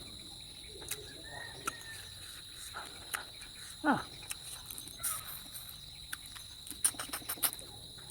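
Crickets chirring steadily in a high, unbroken drone, with scattered sharp clicks and smacks of someone eating, clustered near the end, and one short sliding mouth sound about halfway through.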